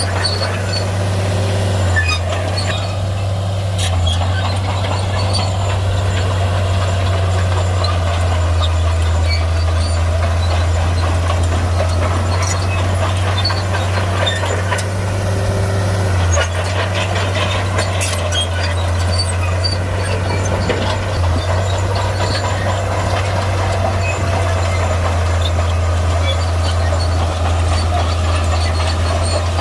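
Heavy Shantui bulldozer's diesel engine running steadily at a constant low pitch, with scattered short clicks and clanks over it.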